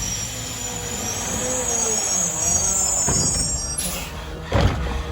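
Garbage truck squealing shrilly, with a lower whine sliding down in pitch. The squeal cuts off suddenly a little before the end, followed by a loud thump.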